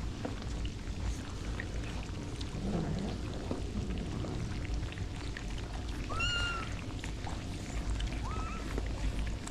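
A cat meowing twice: a short high meow about six seconds in and a shorter one near the end, over a steady low rumble.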